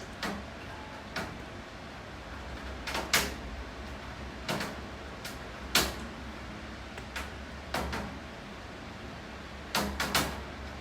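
Rain falling steadily, with large drops tapping irregularly on a hard surface, about a dozen sharp taps, some in quick pairs, over a steady hiss and low rumble.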